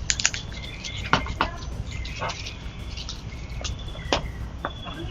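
Pet parrot giving short, sharp chirps and clicks, with brief high whistled notes, several times a second in uneven bursts, over a steady low background hum.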